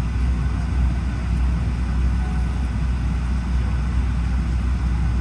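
Steady low rumble with a faint hiss of air inside the cabin of a Boeing 737-800 on the ground before departure.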